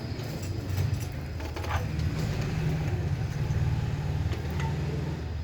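Steady low rumble of a motor vehicle engine running, with a few light metallic clicks over it.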